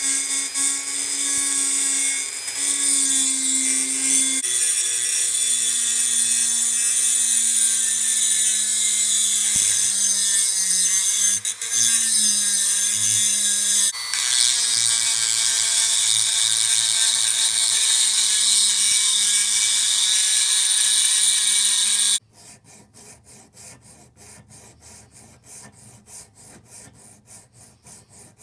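Small power tool running steadily while grinding or sanding the pitted metal of antique grass trimmers, its pitch sagging and recovering as it is pressed into the work. It cuts off suddenly about 22 seconds in, and quieter, quick, even hand-filing strokes follow.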